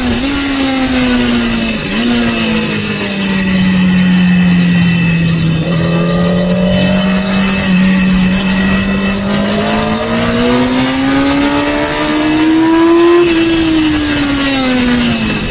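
Onboard sound of a sport motorcycle's engine on track. The revs fall as the bike slows and drops gears, hold steady through a corner, rise as it accelerates out about ten seconds in, then drop again near the end as the throttle closes.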